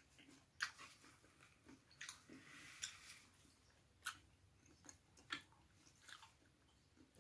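Faint, close-miked chewing: wet mouth smacks and clicks about once a second, with softer chewing noise between two and three seconds in.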